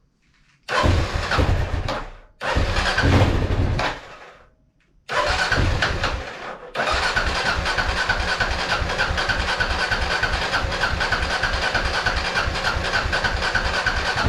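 Kawasaki KLR650 single-cylinder engine being cranked on its electric starter to get it going: two short tries of a second or so each, then a third that carries on without a break from about five seconds in. The carburettor's float bowl has just been drained and must refill with gas before the engine will fire.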